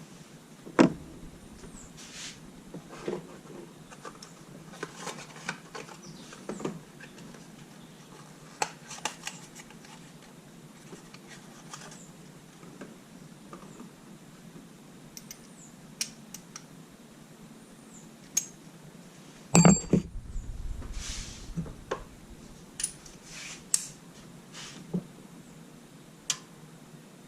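Scattered metallic clicks and clinks of hand tools and parts being handled, irregular and spaced out, with one louder clunk about twenty seconds in.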